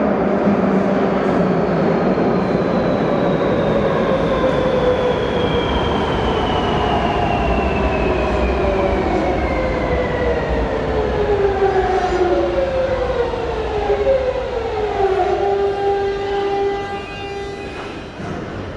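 Madrid Metro 3000-series electric train braking into a station: the motor whine falls slowly in pitch, several tones sliding down together. The tones then level off and the sound drops away near the end as the train comes to a stop.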